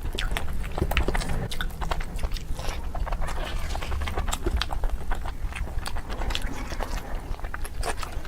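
Close-miked eating sounds: a person chewing mouthfuls of basmati pulao and mutton curry, with frequent wet mouth clicks and smacks, several a second.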